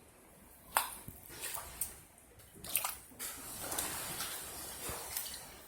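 Floodwater sloshing and splashing, with a few sharp splashes about a second apart in the first three seconds.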